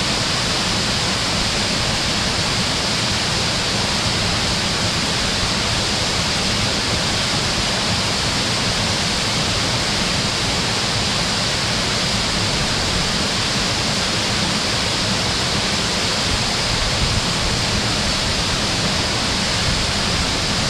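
Waterfall: water falling and splashing steadily in an even, unbroken rush.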